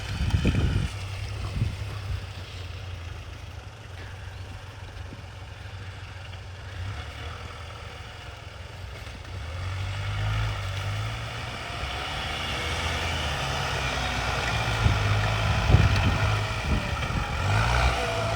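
Mitsubishi L200 pickup engine running, then working harder and revving louder from about halfway through.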